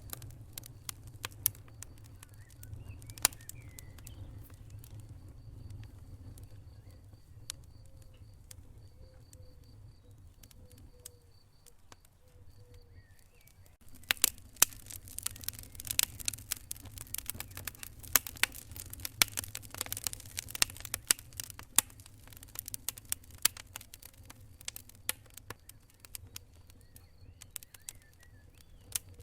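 Wood fire burning in a fireplace over a low steady rumble, with scattered pops at first, then dense crackling and popping from about halfway.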